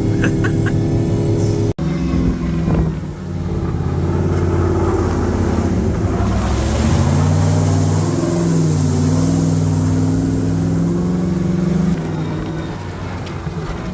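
Mega mud truck's engine running as the truck drives, its pitch rising and falling with the throttle, with a stretch of rushing noise in the middle.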